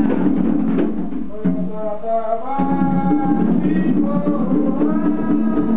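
Atabaque hand drums beating a steady rhythm while voices sing an Umbanda ponto, the chant coming in about a second and a half in.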